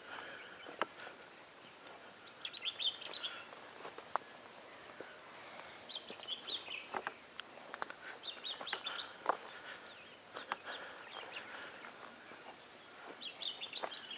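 A bird singing short bursts of quick, high chirping notes four times, with scattered sharp clicks and snaps of footsteps on a dry, overgrown scrub path.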